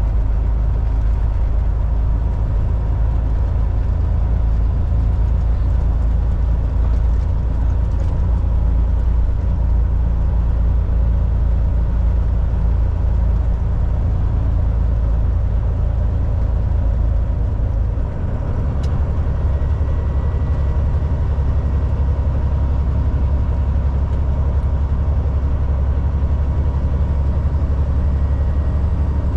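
Volvo VNL 760 semi truck's diesel engine running at highway speed with road noise: a steady low drone whose pitch steps up, with a brief dip in level, about two-thirds of the way through.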